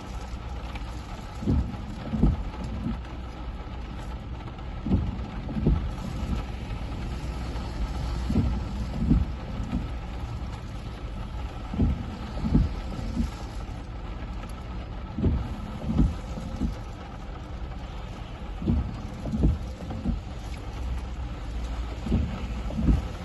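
Hurricane wind and rain: a steady rush, with gusts hitting the microphone in irregular low thumps every second or two.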